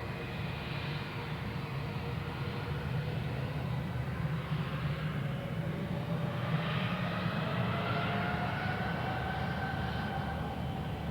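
Airbus A320's twin IAE V2500 turbofans spooling up for the takeoff roll: a steady low rumble, with a whine rising slowly in pitch from about four seconds in.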